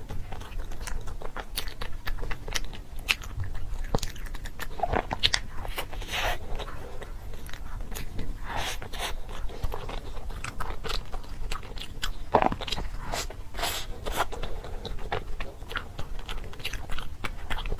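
Close-up chewing of crunchy food: a steady run of irregular crisp crunches and bites.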